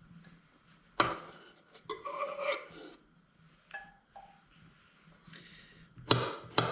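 Kitchen clatter while cooking: a few sharp knocks of utensils against dishes, with a stretch of scraping about two seconds in and small clicks after it.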